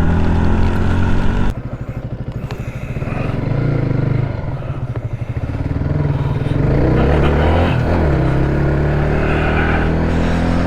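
Yamaha 125 cc single-cylinder motorcycle engine ridden on the road: throttle closed about a second and a half in, running at low revs, then pulling away and accelerating through a gear change near the end, with wind noise on the helmet camera.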